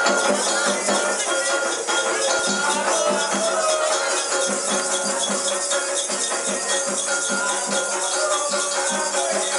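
Percussion music with shaken rattles over a steady low beat of about two beats a second.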